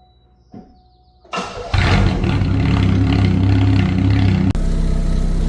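Sunbird car engine starting after a near-silent second, then running loud and steady with a deep exhaust note through its newly fitted muffler. Near the end the sound changes abruptly and drops slightly in level.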